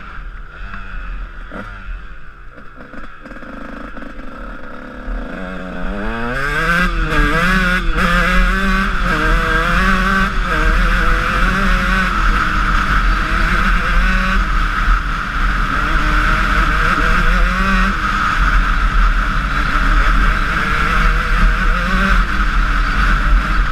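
Honda CR125 two-stroke single-cylinder motocross engine running under way. It is quieter and lower for the first few seconds, then gets louder about five seconds in, with the revs rising and falling.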